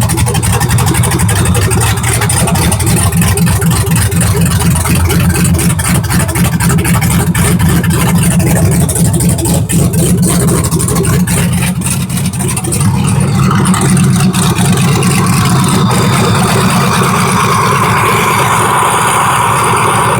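LQ4 6.0-litre V8 in an LS-swapped Chevy S10 running loud with no exhaust fitted, on its first start after new injectors went in. The owner isn't sure it is firing on all eight cylinders.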